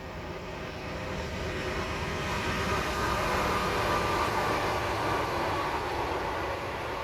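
Train approaching on the line, its noise growing louder to a peak about four seconds in and then easing slightly.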